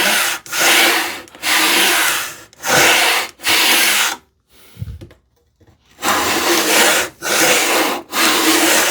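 Hand tool rasping back and forth in a wooden groove, about one stroke a second, taking the groove the last fraction of an inch deeper. There is a short pause a little past the middle.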